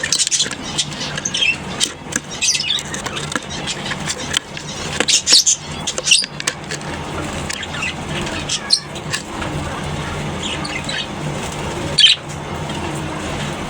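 Lovebirds in an aviary colony chirping and screeching in short, high-pitched calls that come in flurries, over a steady low hum. There are a few sharp clicks, with a loud one near the end.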